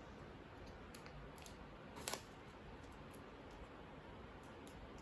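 Faint handling of origami paper as it is folded and creased, with one sharp paper crackle about two seconds in and a few lighter ticks over quiet room hiss.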